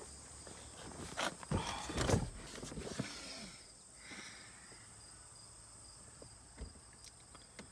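Crickets chirping steadily, with a run of knocks and rustling between about one and three and a half seconds in.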